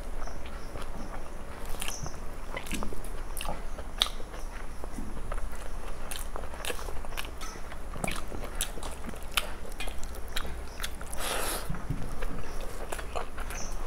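Close-up chewing and lip-smacking of two people eating masala fried rice and egg curry, with many short wet mouth clicks at irregular intervals. A longer rustling burst comes about eleven seconds in.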